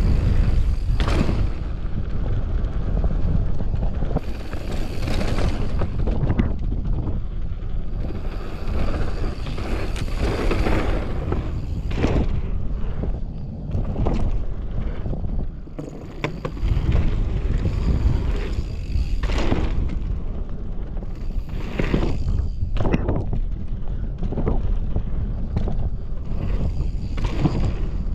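Mountain bike descending a dirt downhill trail: wind buffeting the camera microphone and tyre rumble, broken by frequent sharp clatters and knocks from the bike going over bumps and landing jumps. A brief quieter lull comes about halfway through.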